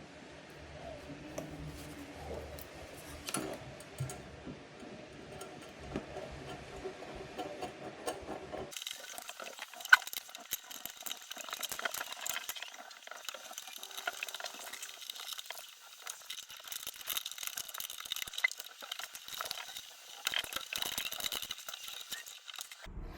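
Light clinking and rattling of small hard objects being handled, irregular and uneven, the sound changing abruptly about a third of the way in.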